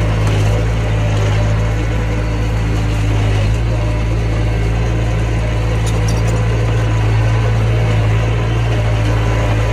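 Mini bulldozer's engine running steadily at an even speed, with a brief click about six seconds in.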